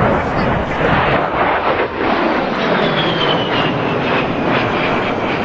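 A-10 Thunderbolt II's twin turbofan jet engines running loud at full power for takeoff. A thin, high whine falls steadily in pitch over the second half.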